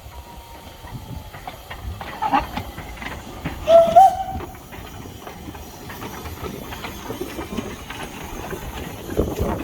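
Steam train sounds: steady hissing with scattered clanks and clicks, a short wavering whistle about four seconds in, and a louder rush of steam near the end.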